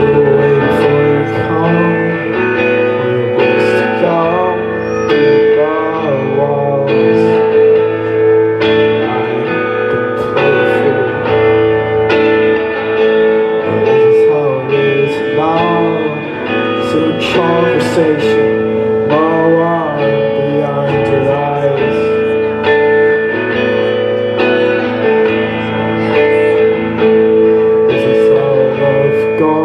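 A live song on guitar with a man singing over it.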